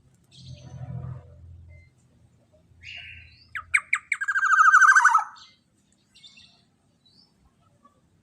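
Black-naped oriole (kepodang emas) calling: a few sharp notes, then a loud, harsh, rapidly pulsing call about a second and a half long that falls in pitch, starting about three and a half seconds in.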